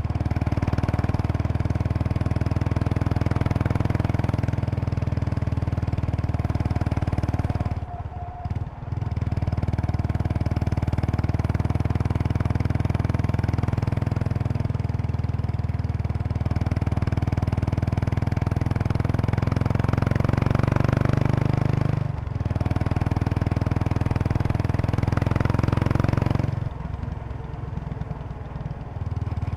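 Riding exhaust note of a 2003 Kawasaki Estrella RS's air-cooled single-cylinder engine through an aftermarket Yamato muffler, running steadily under throttle. It dips briefly about 8 and 22 seconds in, and falls to a quieter note near the end as the throttle closes.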